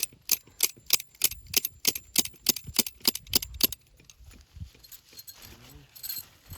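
Tent stake being hammered into the ground: about a dozen sharp strikes, roughly three a second, stopping about four seconds in.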